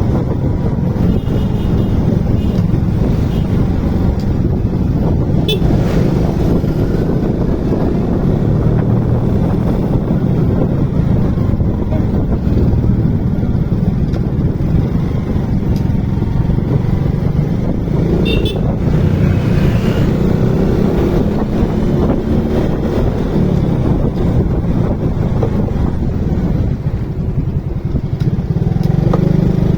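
Motorcycle riding along: the engine running, its note shifting with speed, under a steady rush of wind noise.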